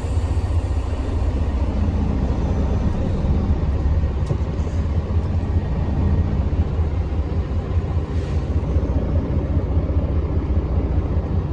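Steady low rumble of a truck running, heard from inside its cab, with an even hiss over it.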